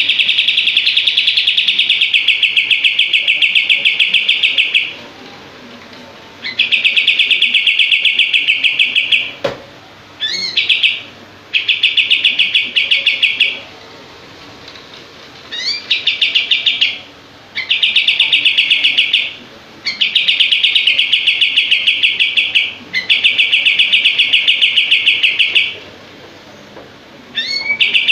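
A kapas tembak songbird singing its 'shooting' song: bursts of rapid, closely spaced notes delivered as a fast, even rattle. Each burst opens with a few quick rising notes and lasts from about one to five seconds, with short pauses between the bursts.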